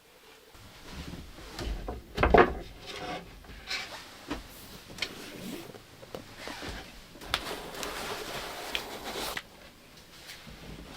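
Knocks, clicks and rustling as small objects are handled and put away after a meal, inside the closed cabin of a small camper, with one louder knock a couple of seconds in.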